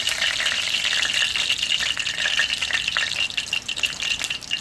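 Curry leaves sizzling and crackling in hot oil, a dense hiss with many small pops that eases off slightly near the end.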